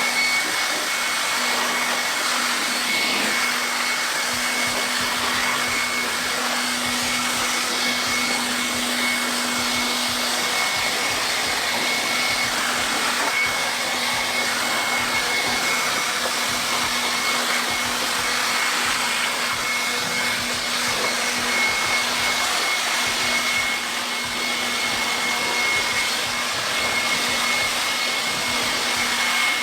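Air blower running steadily, drying water off a freshly washed engine bay: an even rush of air with a steady high whine over it.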